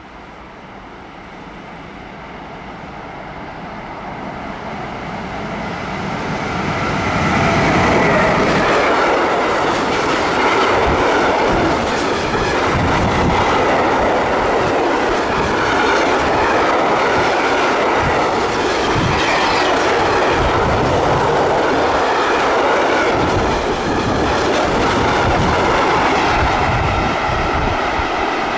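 A freight train of tank wagons hauled by a Siemens Vectron electric locomotive approaches, growing steadily louder until it passes about seven seconds in. The loaded wagons then run by close at speed, with a steady rumble and a rhythmic clickety-clack of wheels over the rail joints.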